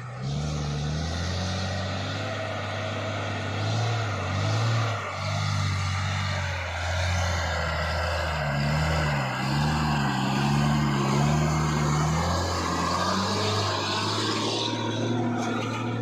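Heavy truck's diesel engine running under load. Its pitch wavers up and down several times in the second half.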